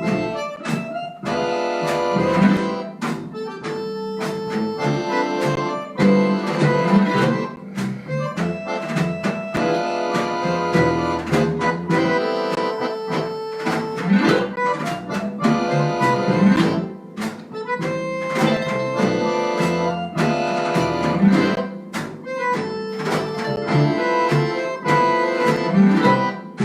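Live harp-jazz group playing: plucked string attacks with sustained melody notes over them.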